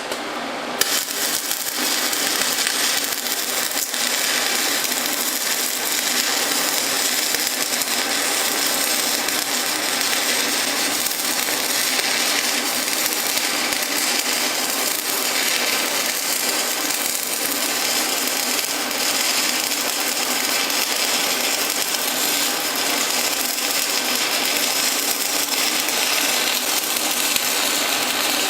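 Stick (SMAW) welding arc from an Everlast 206Pi inverter welder, crackling steadily as an electrode runs a bead along a lap joint. The arc strikes just under a second in.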